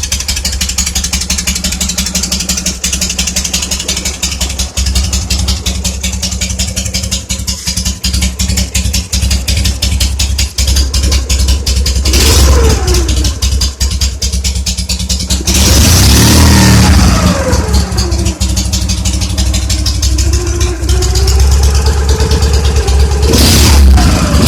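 K-750 motorcycle's side-valve flat-twin engine running steadily, then revved: a short rise and fall in pitch about halfway through, followed by a longer stretch of revving with the pitch climbing and dropping.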